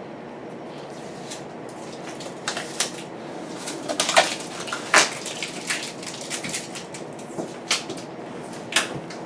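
Protective plastic film being peeled off a stainless steel refrigerator door, crackling and snapping in irregular bursts as it comes away. The film is old and clings hard to the steel.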